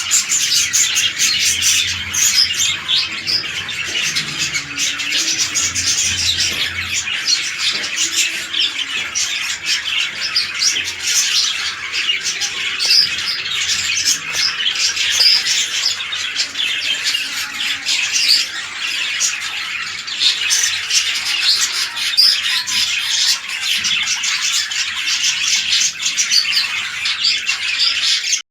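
Budgerigars chattering and squawking without pause, a dense stream of overlapping high chirps.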